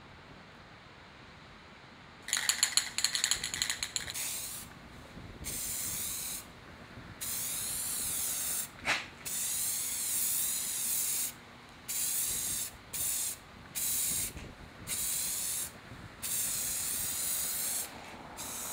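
An aerosol spray-paint can rattled briefly about two seconds in, then sprayed in a series of hissing bursts of varying length, some short puffs and some around two seconds long.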